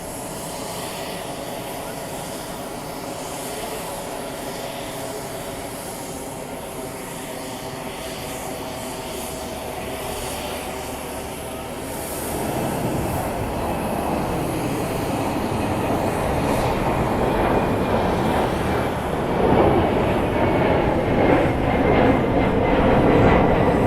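Jet airliner engines: a steady whine for about half the time, then a louder rushing jet noise that comes in about halfway and keeps building toward the end.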